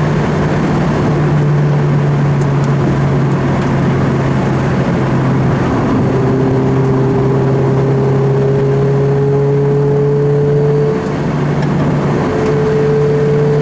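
Lotus Elise 111R's 1.8-litre Toyota four-cylinder engine pulling at speed, heard from inside the car over road and wind noise. Its note climbs slowly for several seconds, dips briefly about eleven seconds in, then picks up again.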